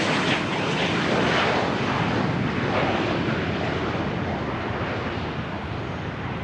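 Gulfstream G280 business jet's turbofan engines, a broad rushing roar that slowly fades away.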